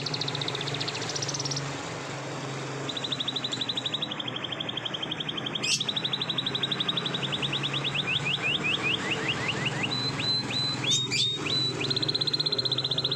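Canary singing long rolling trills of fast repeated notes, pausing briefly about two seconds in and changing partway through to slower, falling notes before a fast trill again near the end. A couple of sharp clicks are heard between the phrases.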